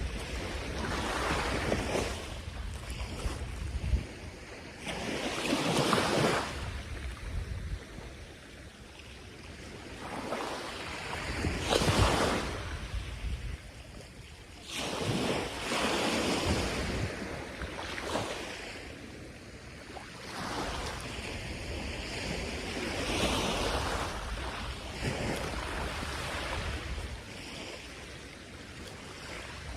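Surf breaking on a sandy beach, one wave after another swelling and washing back every few seconds, with wind rumbling on the microphone.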